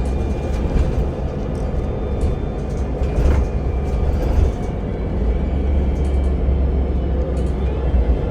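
Interior of a public-transport vehicle in motion: a steady low rumble, with a few faint short rattles and clicks.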